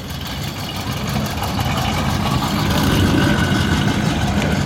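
V8 muscle car engine rumbling at low revs with an uneven, lumpy throb, growing gradually louder.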